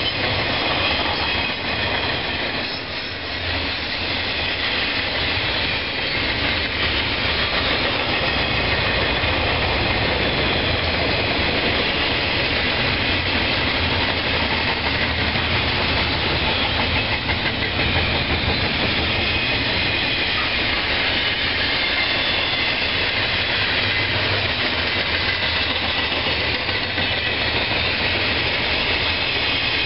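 A train rolling past: a steady rumble and rush of wheels on rail, with faint high steady tones above it.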